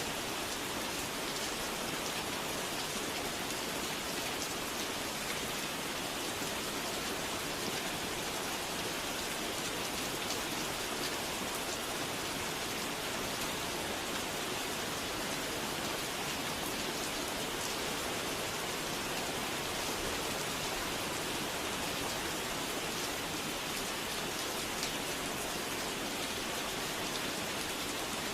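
Steady rain falling, an even dense patter with scattered individual drops heard among it.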